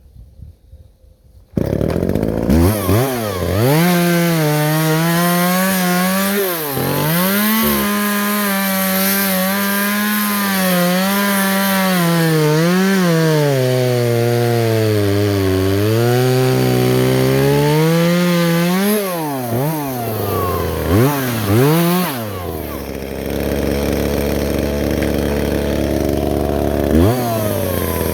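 Two-stroke chainsaw cutting into a dead tree, its engine pitch sagging and recovering again and again as the chain bites. About twenty seconds in it is revved a few times, then drops to idle, with one more quick rev near the end.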